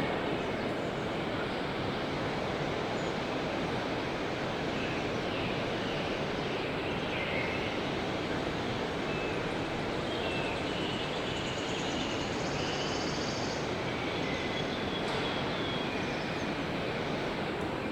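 Steady, even background noise of a busy trade-fair hall, with faint short high tones now and then.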